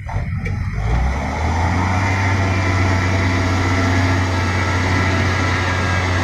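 Heavy diesel engine running loud and steady close by, building up over about the first second.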